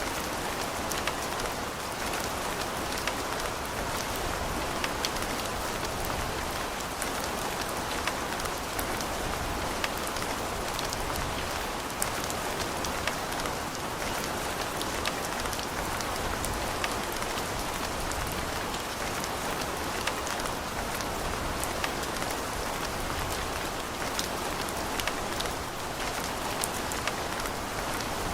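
Steady rain with many close, sharp drop ticks pattering on a surface, a dense even hiss strongest in the middle range.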